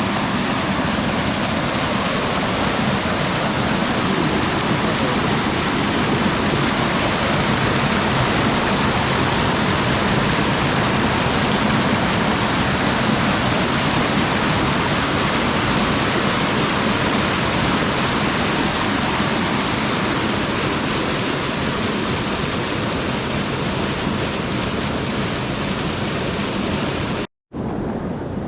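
Storm runoff rushing out of a pipe mouth, a loud, steady rush of water. It drops out briefly near the end.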